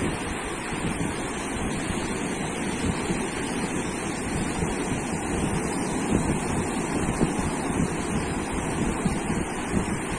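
Ocean surf breaking and washing on a sandy beach in a steady wash of noise, with wind rumbling on the microphone.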